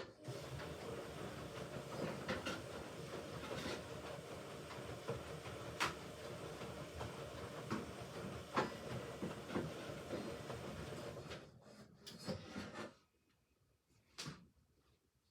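Hoover Ecologic Computer 1300 washing machine turning its drum during a rinse: a steady running noise with a few sharp knocks from the load. It stops about twelve to thirteen seconds in, and a single click follows.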